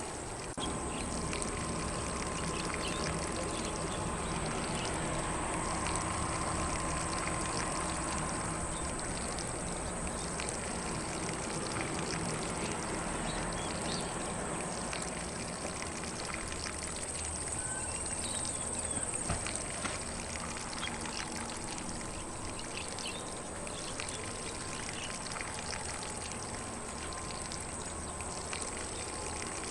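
Lawn sprinkler spraying water across grass: a steady hiss and patter of falling water, with faint bird chirps now and then.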